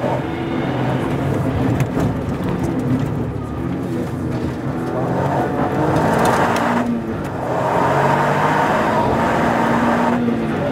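Toyota GR Yaris rally car's turbocharged three-cylinder engine heard from inside the cabin on a flat-out stage run. It rises and falls through the gears, easing off as the car slows hard for a corner around the middle, then climbs again as it accelerates away.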